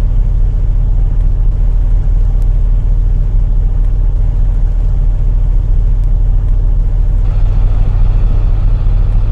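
Steady low rumble of a bus engine and drivetrain heard from inside the moving bus. About seven seconds in, a higher hissing layer of road and engine noise joins the rumble.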